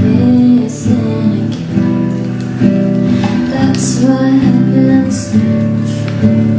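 Acoustic guitar cover song with a woman singing, and a few brief crackles from a campfire mixed in.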